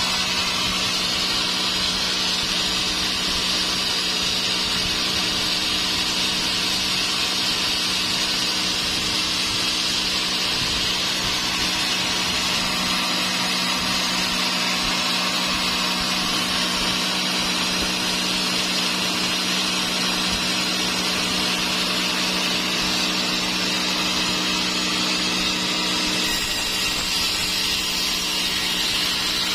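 Sawmill saw running steadily through dry teak wood: a constant hum under a high, hissing cut that barely changes.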